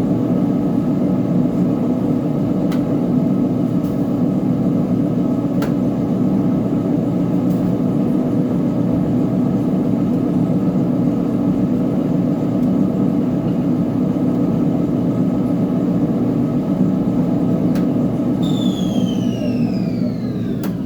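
Uni-Mac UniMat 35 commercial washing machine running with a steady hum. Near the end a motor whine falls steadily in pitch as the drum slows down.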